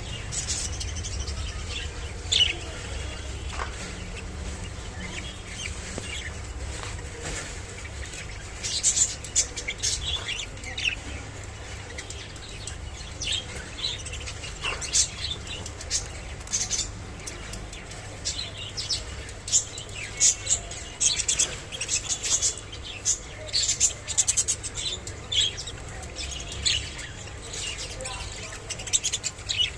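Budgerigars chirping in short, high calls, scattered at first and coming thick and fast from about eight seconds in, over a low steady hum.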